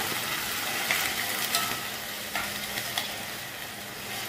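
Vegetables sizzling in hot oil in a pot as coconut milk is poured in, with a few light clicks of a bowl and spoon against the pot.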